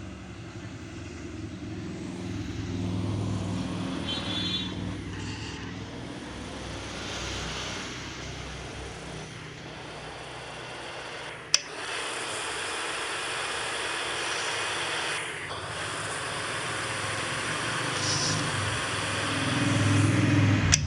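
Road traffic: motor vehicles running and driving past, with a low engine rumble that rises and falls, and one sharp click about halfway through.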